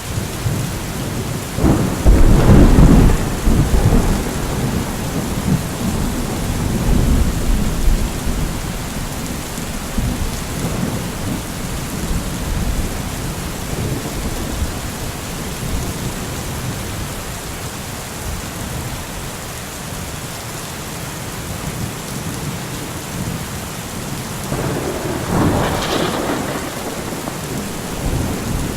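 Steady rain falling, with two peals of thunder: a loud clap about two seconds in that rumbles on for several seconds, and a weaker one near the end.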